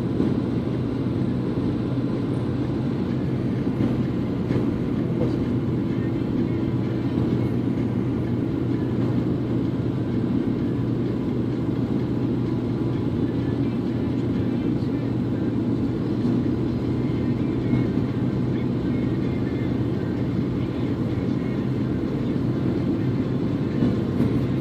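Steady low rumble of a moving vehicle with a constant low hum, unchanging throughout.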